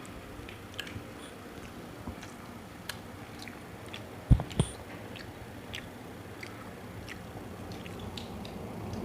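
Close-up eating sounds: chewing and biting on a sandwich, with small wet clicks and smacks scattered throughout, and two dull thumps close together a little before the middle.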